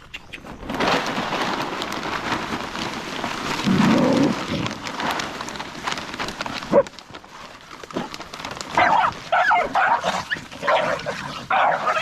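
A steady rushing noise for the first half, then a dog barking and yelping in short, rapid bursts from about nine seconds in.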